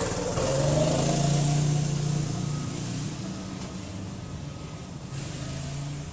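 Small 6.5 horsepower single-cylinder engine running under throttle as the machine drives away, its sound fading off.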